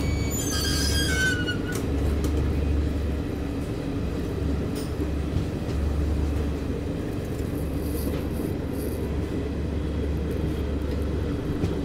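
Passenger express train running along the track, heard from an open window of a moving coach: a steady rumble of wheels and coaches. A brief high, falling squeal sounds about a second in.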